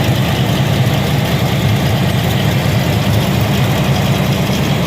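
Rebuilt 355 small-block Chevrolet V8 with a new cam, idling steadily.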